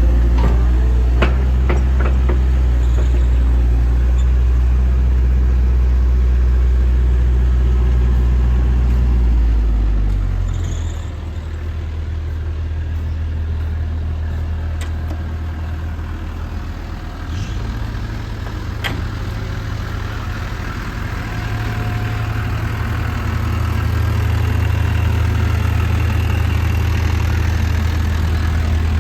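Diesel engine of a JCB 65R-1 midi excavator running steadily. About ten seconds in, its note drops lower and quieter, then comes back up in two steps later on. A few sharp clicks sound near the start and one more partway through.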